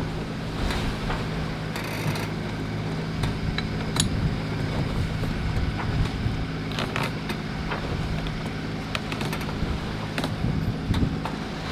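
Steady low mechanical hum aboard a sailboat under way, with scattered light clicks and knocks.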